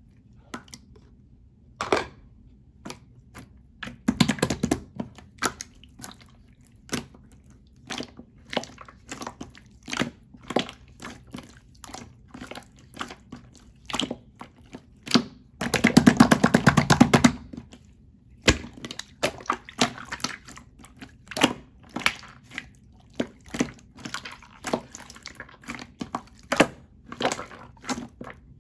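Clear slime being squeezed, stretched and folded by hand, giving irregular wet clicks and pops, with a denser, louder stretch of crackling bubble pops a little past halfway.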